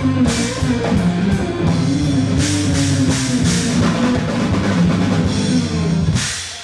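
Live rock band playing drum kit, bass and electric guitar, closing on a final crash about six seconds in, then dying away.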